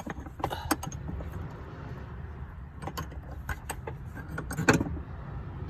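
Scattered metal clicks and clinks of a wrench and battery hardware being handled, a few at a time, over a steady low rumble.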